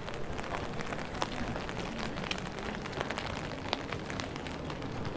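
Steady rain, with many irregular sharp ticks of drops landing.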